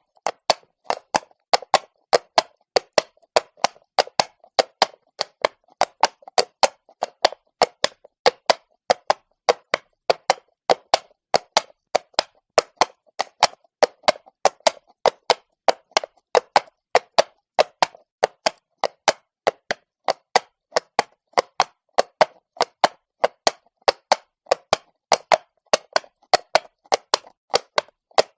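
Horse walking on stone, its hooves clopping in a steady, even rhythm of sharp knocks, a few a second.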